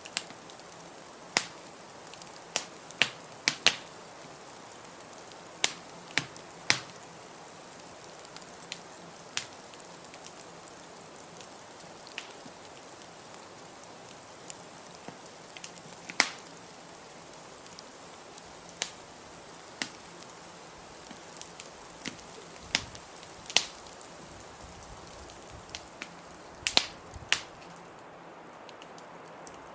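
Wood fire crackling in a fireplace: irregular sharp pops and snaps over a steady hiss, which thins near the end.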